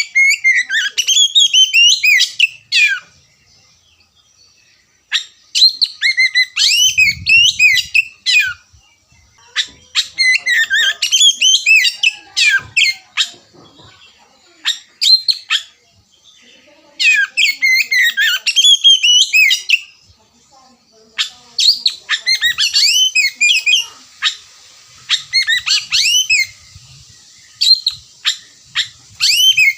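Oriental magpie-robin (kacer) singing in bouts of rapid, varied, high sweeping notes. Each bout lasts two to four seconds, with short pauses between them.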